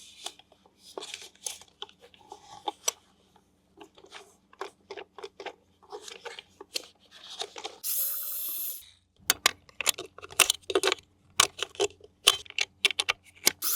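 Toy packaging being handled and opened: plastic and cardboard crinkling and tearing, with many small clicks and knocks. A louder hissing burst lasting under a second comes about eight seconds in.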